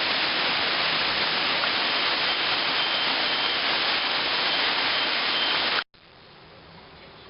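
Heavy thunderstorm rain pouring down, a loud steady hiss. About six seconds in it cuts off abruptly and a much quieter hiss takes over.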